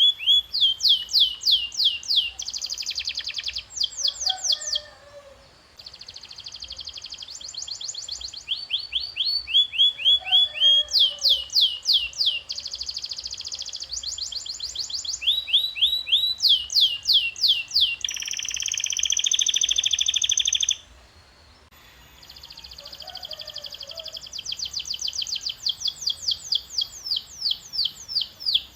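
Canary singing: long phrases of rapid repeated notes, each a quick falling whistle, run together in rolling trills. A harsher buzzing roll comes about eighteen seconds in. The song breaks off briefly about five seconds in and again about twenty-one seconds in.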